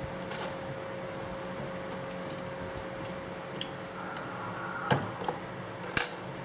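Hard parts of a disassembled electric drill being handled, giving a few sharp clicks and knocks, the loudest about five and six seconds in, over a steady low hum.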